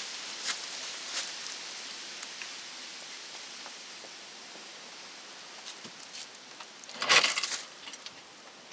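A few light clicks, then a short clatter of small hard objects, like metal parts knocking together, about seven seconds in.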